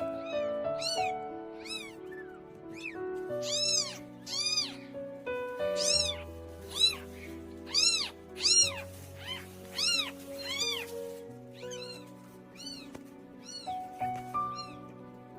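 Young kittens mewing over and over, short high cries about one or two a second, loudest in the middle. Slow piano music plays underneath.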